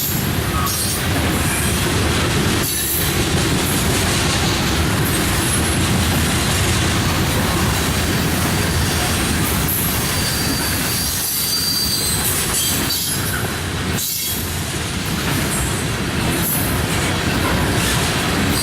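A train's cars rolling past on the rails: a steady loud rumble, with the wheels squealing in brief high tones now and then.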